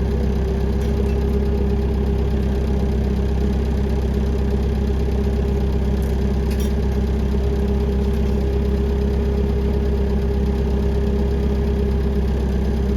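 An engine idling steadily, a constant low drone that does not change.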